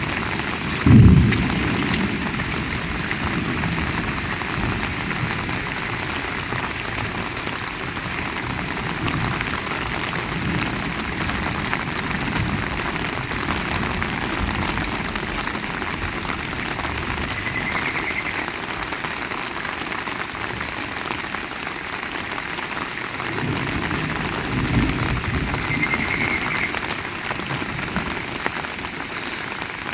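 Heavy rain falling steadily. About a second in comes a loud, short low clap of thunder, and a softer rolling rumble of thunder follows near the end.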